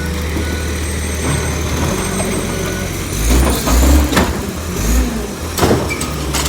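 Diesel engine of a Bridgeport Ranger recycling truck running steadily, then revving in a few swells from about three seconds in, with several sharp knocks.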